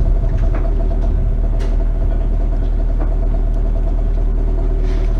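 An engine running steadily at an even pitch over a heavy low rumble, with a few faint clicks.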